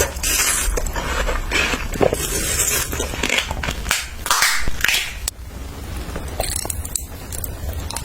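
Food being bitten and chewed with a crisp crunching and crackling, busier in the first five seconds and quieter after that.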